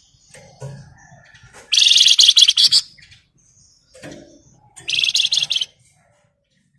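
Flamboyan songbird singing its dense, rapid rattling 'ngebren' song: two loud high buzzy trills, the first about a second long and the second shorter, with softer short calls between them.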